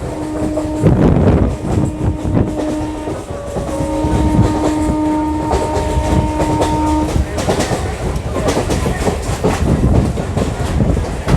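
Old EMU local train running, heard on board: steady rumble and wheels clattering over rail joints. A train horn sounds in three held blasts over the first seven seconds, the last the longest, about three seconds.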